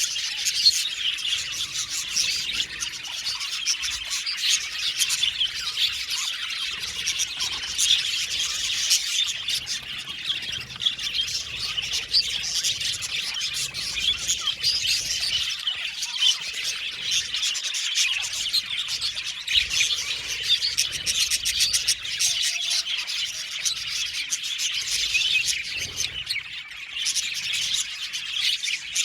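A flock of budgerigars (budgies) chattering, chirping and warbling together without a break, many birds calling over one another.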